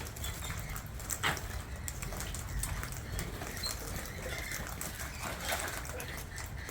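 Wild parrots calling, faint and scattered, with one short louder call about a second in, over a low steady rumble.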